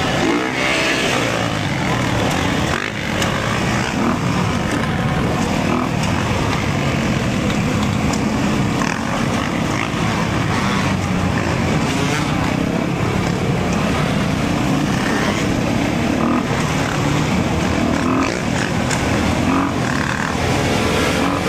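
Dirt bike engines running steadily under riding.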